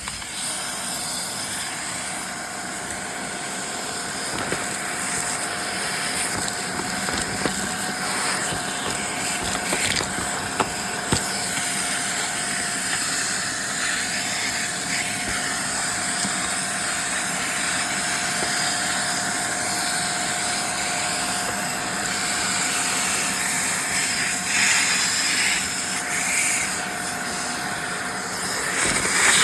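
Steady hiss with a faint steady whine under it, like a small motor running; the whine stops near the end, with a few light clicks along the way.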